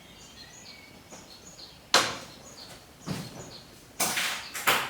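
A single sharp bang about two seconds in, followed by short scraping, shuffling noises, with faint chirps of small birds in the background.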